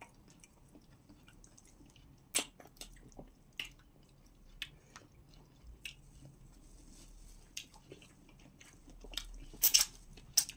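Close-miked eating sounds of pounded yam and okra soup being eaten by hand: chewing, with scattered sharp mouth clicks and smacks. The loudest smacks come near the end, as a finger is licked clean.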